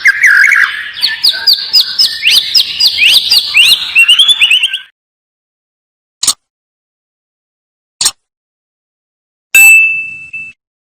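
Oriental magpie-robin (kacer) singing a fast run of rising whistled notes for about five seconds, then stopping abruptly. A few short sharp chirps follow, and near the end one held whistle of about a second.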